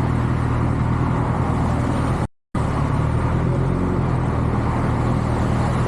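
Motorcycle engine running at a steady pitch while riding, with wind and road noise over it. The sound drops out completely for a fraction of a second a little over two seconds in.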